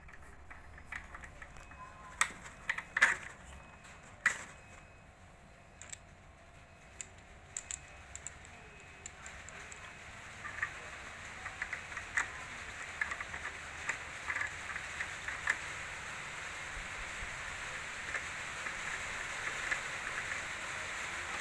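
Scattered sharp clicks and knocks of hard plastic parts being handled and fitted together, with the loudest strikes in the first few seconds. A faint hiss builds slowly through the second half.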